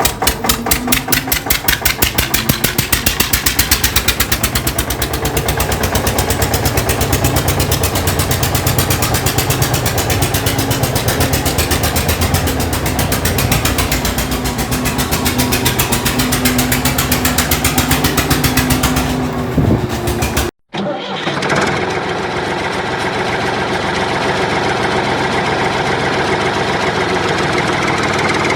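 Small engine running loud with a fast, even chatter of firing pulses. It cuts out abruptly about two-thirds of the way through, then runs on more steadily.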